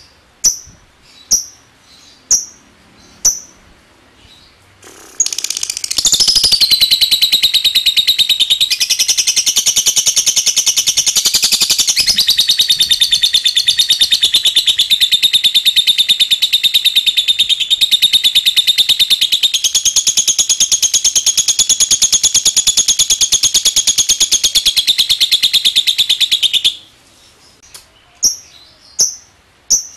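A lovebird gives short sharp chirps about once a second. About five seconds in it breaks into a long unbroken rapid rattling trill, the 'ngekek' song, which lasts over twenty seconds. It returns to single chirps near the end.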